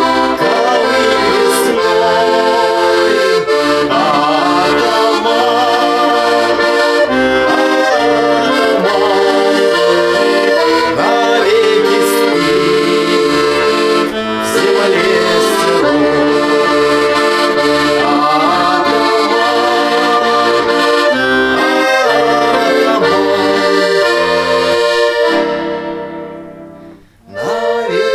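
Accordion playing an instrumental folk tune, melody over held chords; it fades out near the end and starts again just before the end.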